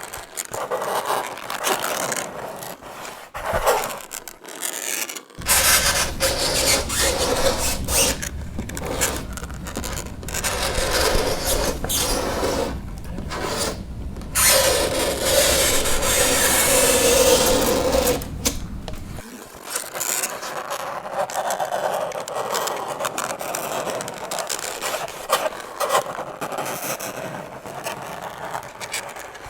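Fingernails scraping across a chalkboard in repeated scratchy strokes with short breaks between them. A longer stretch in the middle has a low rumble beneath it and a held screech.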